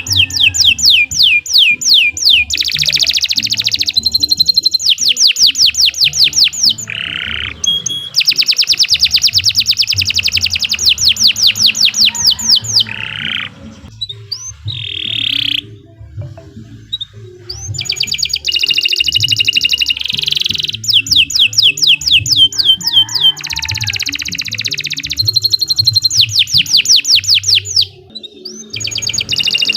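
Domestic canary singing a long, loud song of rapid trills, each phrase a fast run of identical repeated notes, changing from one trill to the next, with short breaks near the middle and near the end.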